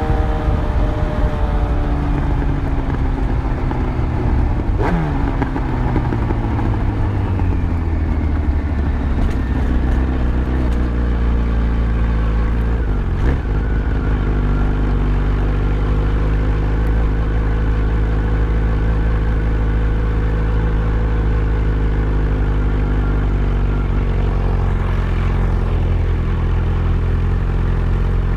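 Yamaha FZ1's inline-four engine on a ride: the engine note falls over the first several seconds as the bike slows, with a sharp click about five seconds in and another near halfway, then settles into a steady low running note.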